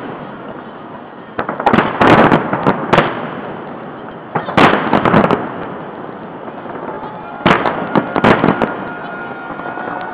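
Salute fireworks shells bursting overhead in three clusters of rapid sharp bangs and crackle, about a second and a half in, about four and a half seconds in, and about seven and a half seconds in, with a steady rumble between the clusters.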